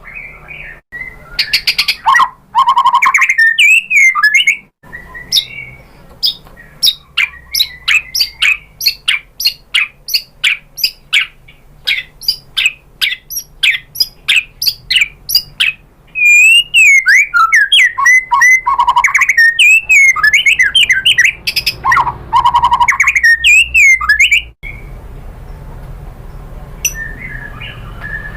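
White-rumped shama singing: loud, varied whistled phrases, then a long run of sharp repeated notes about three a second, then rich, gliding warbled phrases, growing quieter near the end.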